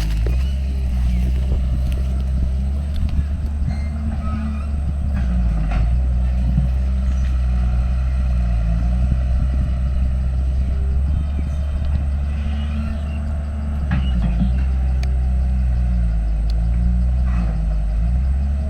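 Diesel engine of heavy earthmoving machinery running under load, its pitch rising and falling as it works, with occasional sharp metallic knocks.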